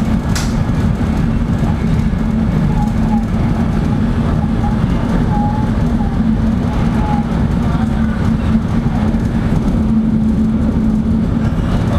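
Shinkansen bullet train running at speed, heard from inside the passenger car: a steady rumble of running noise with a low hum under it. A brief click comes about half a second in.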